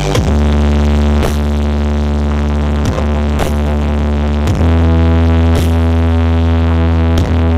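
Loud electronic dance music played through a large outdoor sound system under test, with long held deep bass notes that change pitch every second or two and sharp hits at uneven intervals.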